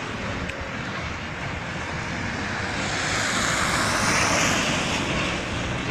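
A passing vehicle: a rushing noise over steady background rumble that swells about three seconds in, peaks near four seconds and fades, with a sweeping change in tone as it goes by.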